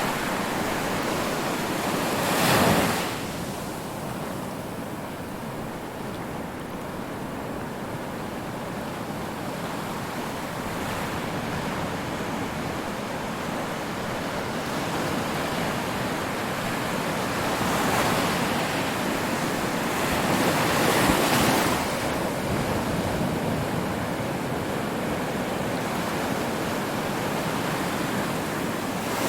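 Ocean surf: a steady wash of breaking waves, with a bigger wave crashing about two and a half seconds in and two more swelling and breaking in the last third.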